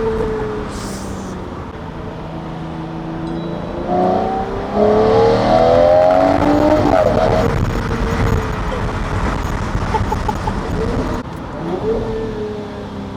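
Lamborghini Murciélago LP 640's 6.5-litre V12 under hard acceleration: the revs climb steeply from about four seconds in, fall back with a gear change around seven seconds, and ease off again near eleven seconds.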